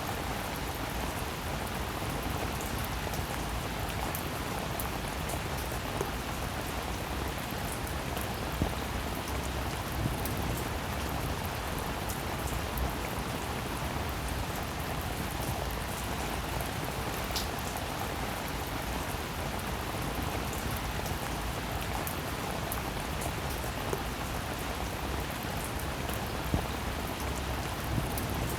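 Steady rain falling, with a few sharper drop impacts scattered through it.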